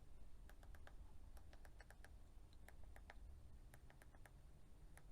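Faint clicking of the small push-button switches on a Holden Commodore key fob's circuit board being pressed one after another, a string of short clicks starting about half a second in, many in press-and-release pairs. The buttons click and seem to be working.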